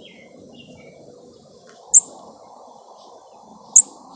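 A young American robin close by giving short, sharp, high-pitched chirps, twice, about two seconds apart and loud. Fainter chirps from other birds and a steady outdoor hum sit underneath.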